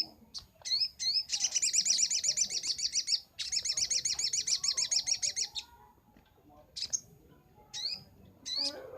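Little spiderhunter (sogok ontong) singing. A few sharp single chirps, then two long, fast trills of repeated high notes lasting about two seconds each, then scattered chirps again near the end.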